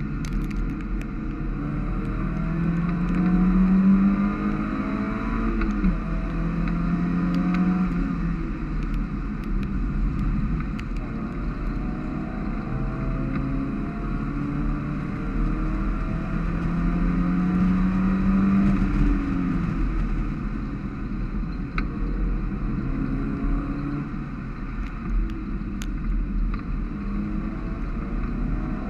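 Mazda MX5's four-cylinder engine heard from inside the cabin, revving up and dropping back again and again as it is driven hard through the gears, over a steady hiss.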